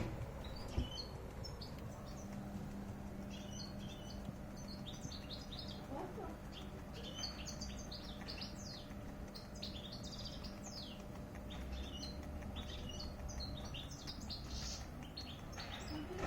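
Small bird chirping and twittering: runs of short, quick, high notes with brief pauses between them.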